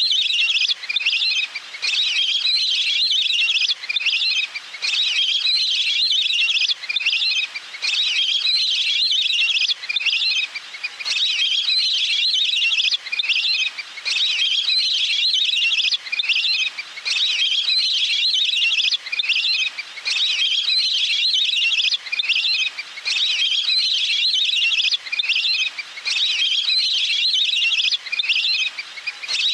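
Waterfowl (นกเป็ดน้ำ) calls from a lure recording. Rapid, high trilling calls repeat almost without pause, broken by short gaps every second or two.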